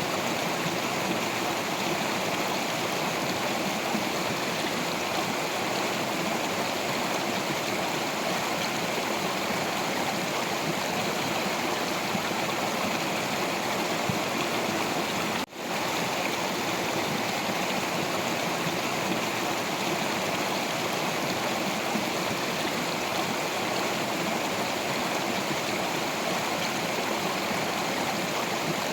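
Stream water flowing over rocks, a steady even rush, dipping out for an instant about halfway through.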